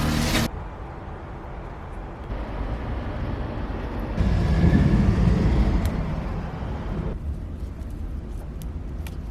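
Outdoor background rumble, louder for a few seconds in the middle, with a few faint clicks near the end; background music cuts off just after the start.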